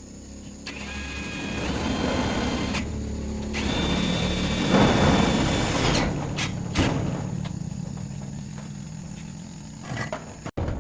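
A power tool's electric motor running with a high whine, its pitch stepping up about two seconds in, over mixed workshop clatter.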